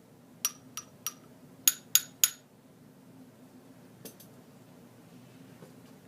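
Wooden mallet striking the metal tubes of a homemade wind-chime instrument. Three lighter strikes are followed by three harder, louder ones, each ringing briefly with a bright tone, which shows soft versus loud playing by the force of the stroke. One faint tap comes about 4 s in.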